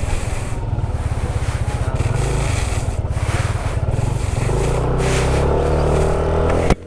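Motorcycle engine running under way, with wind rushing over the microphone; from about halfway the engine note climbs as it accelerates, and the sound drops out abruptly just before the end.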